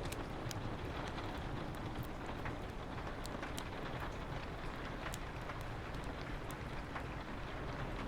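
Steady rain with a low rumble underneath, mixed with scattered sharp crackles of a wood fire in a fireplace.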